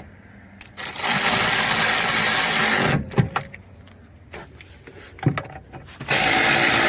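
AC Delco cordless power tool running seat-rail bolts in, in two runs of about two seconds each with a few clicks between them.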